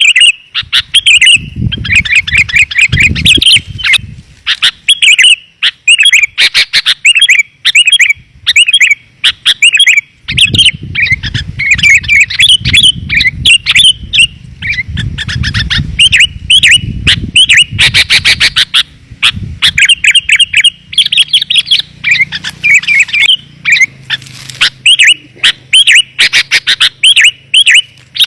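Sooty-headed bulbul (kutilang) calling rapidly and without pause: loud, clear, densely packed chirping phrases of the kind played as a lure call to bring wild bulbuls in. A low rumble runs underneath in two stretches, about two seconds in and again from about ten seconds to twenty.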